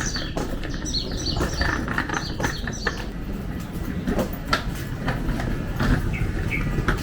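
Small songbirds chirping rapidly during the first few seconds, then thinning to a couple of short notes near the end, over a low steady rumble.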